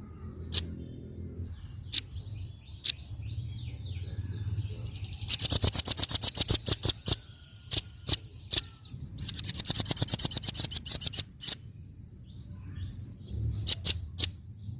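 Velvet-fronted nuthatch calling: sharp, high single chips, with two fast rattling trills of rapid chips, one about five seconds in and one about nine seconds in, each lasting about two seconds.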